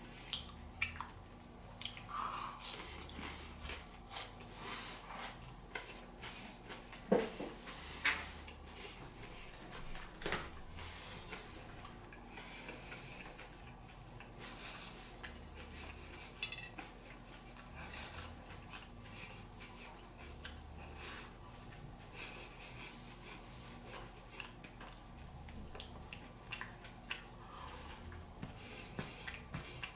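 Dishes and cutlery clinking and tapping during a meal: scattered small clicks, with a few louder knocks about seven to ten seconds in.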